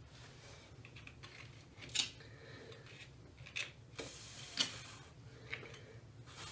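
Scattered sharp metallic clicks and clinks of hand work on metal hardware, with a short scrape around four seconds in: handling the toilet's flange bolts.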